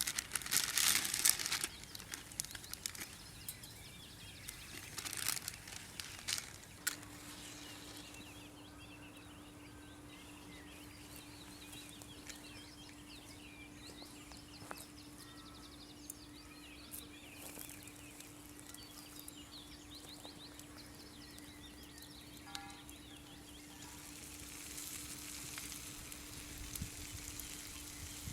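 Crinkling and rustling at the start. Then faint bird chirps over a steady low hum, and a light sizzle of food frying that builds near the end.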